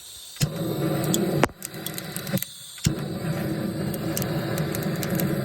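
Handheld gas blowtorch flame playing on lump charcoal to light it: a steady rushing noise with a low rumble. It cuts out briefly twice, and a sharp click comes as it starts up again each time.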